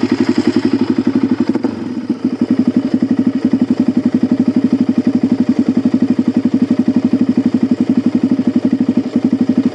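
Suzuki DR-Z400 single-cylinder four-stroke dirt bike engine idling with a steady, even thump, dipping briefly about two seconds in.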